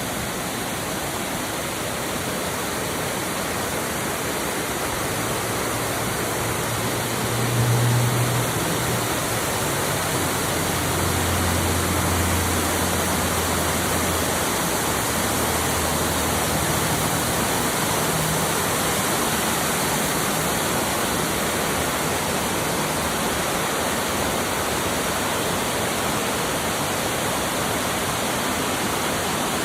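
Small woodland waterfall pouring down into a creek: a loud, steady rush of falling water. A low hum comes in and fades out again in the middle.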